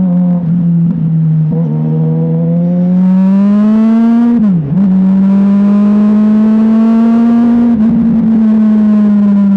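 Motorcycle engine running under way, its pitch climbing slowly as it accelerates, dropping briefly about four and a half seconds in at a gear change, then climbing again.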